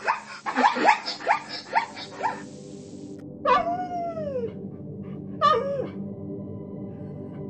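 Zebra calling: a rapid series of short yelping barks, each falling in pitch, ending about two seconds in. Then a dog whines twice: a drawn-out whine that rises and falls, and about two seconds later a shorter one.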